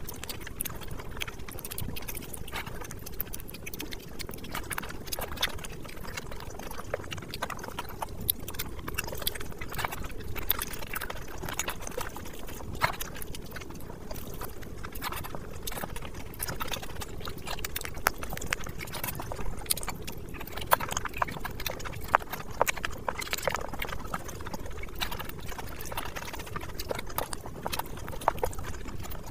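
Close-up eating sounds of rice and curry eaten by hand: wet chewing and lip-smacking, with many irregular small mouth clicks and squishes.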